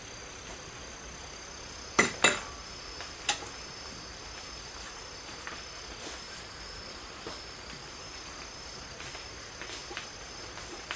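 Steady, high-pitched insect chirring in the background, with two sharp metallic clinks about two seconds in and a third a second later, then a few fainter taps.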